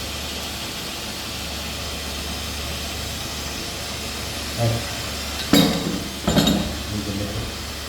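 A steady hiss with a low hum, broken by two sharp clinks just under a second apart, along with brief voices.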